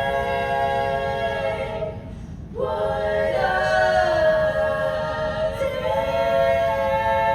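A cappella vocal ensemble singing sustained chords. The voices cut off briefly about two seconds in, then come back in on long held chords.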